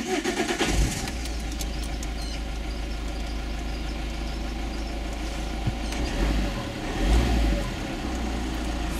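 Car engine cranked by the starter and catching within about a second, then running at a steady idle, briefly louder around seven seconds in.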